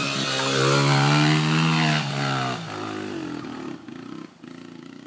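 Honda CRF80F dirt bike's small single-cylinder four-stroke engine revving hard under load up a hill. About two and a half seconds in, the throttle comes off and the engine note drops and grows quieter.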